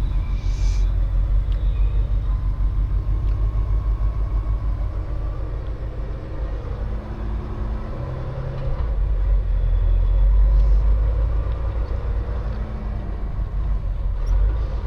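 Semi truck on the road: a steady low engine and road rumble that swells a little about two-thirds of the way through.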